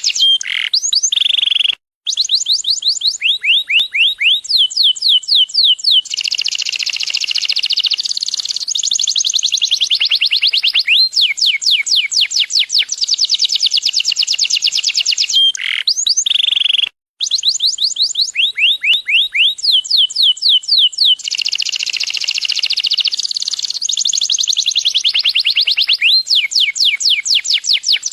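Domestic canary singing continuously: long rolls of rapid repeated notes, some as fast sweeping trills and others as dense buzzing rolls. The song cuts out completely for a split second twice, and the same song phrase comes round again about every 15 seconds.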